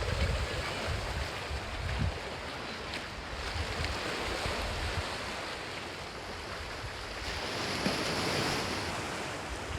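Sea waves washing against the shore, with gusts of wind rumbling on the microphone; a wave surges louder about eight seconds in.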